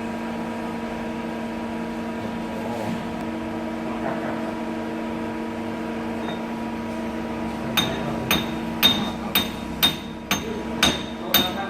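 CNC lathe running with a steady electrical hum. About two-thirds of the way through comes a run of sharp clicks, roughly two a second.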